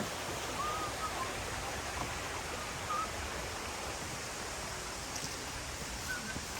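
Steady rush of flowing water, an even hiss. A bird chirps briefly a few times in the first half.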